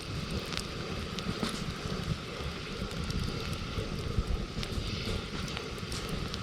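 Wood campfire crackling, with scattered small pops and snaps over a steady low rumble.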